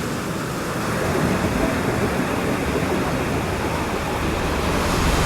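Ocean surf: a steady wash of breaking waves that slowly grows louder.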